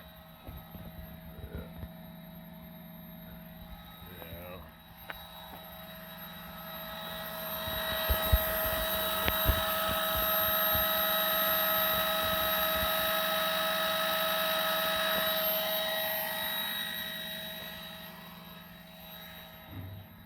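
Vehicle driving noise: a steady whine and hum under road and engine noise that swells for several seconds in the middle, then dies back down.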